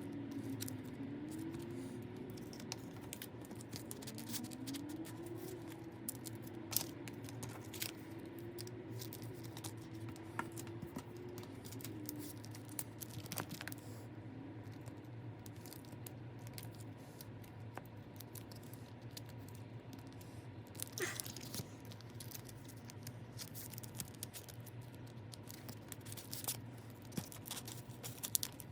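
Quiet handling of packaging and small items: scattered light clicks, scratches and rustles over a steady low room hum.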